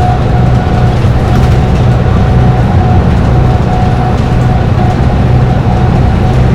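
Dennis Trident double-decker bus engine running steadily under load at highway speed, with a high whine that comes and goes over the low engine hum.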